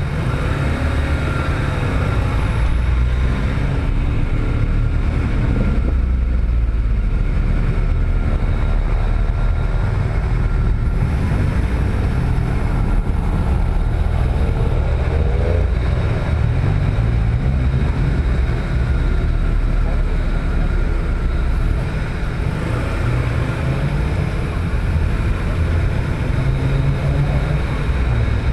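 Steady low rumble of a car engine as the vehicle drives along, with faint voices underneath.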